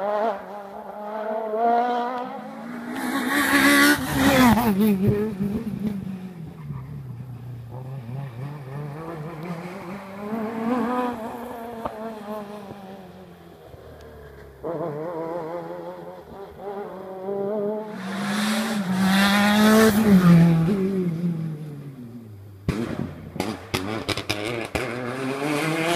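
Rally cars at full effort on a closed special stage, engines revving up through the gears and dropping off the throttle again and again, with two close loud passes. Near the end comes a quick run of sharp cracks.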